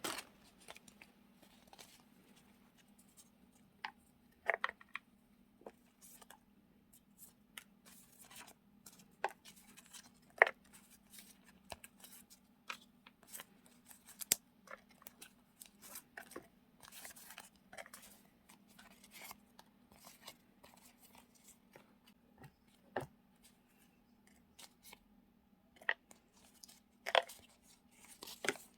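Paper stickers and small journaling supplies being handled and sorted: scattered light paper rustles, taps and clicks at irregular intervals over a faint steady hum.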